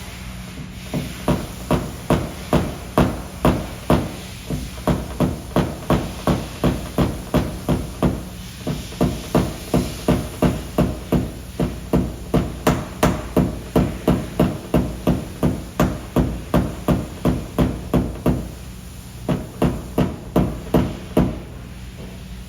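Paintless dent repair tapping on a car fender: a hammer striking in an even run of about two light taps a second, with a short break near the end.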